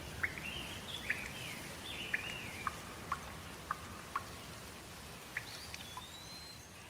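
Steady rain ambience with birds chirping: short rising-and-falling call phrases over the even hiss, with scattered sharp ticks.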